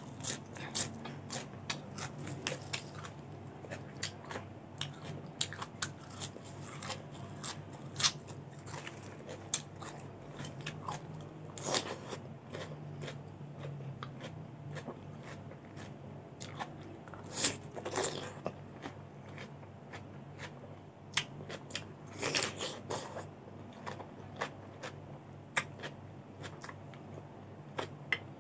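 Crisp crunching and chewing of raw vegetables, cucumber and fresh leafy greens, bitten and chewed in a run of sharp crackling crunches. The loudest bites fall about 12, 18 and 22 seconds in.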